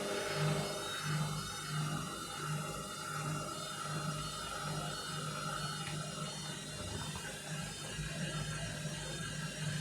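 Washing machine motor turning a drum overloaded with a heavy wet load. A low hum pulses about twice a second over a steady whine.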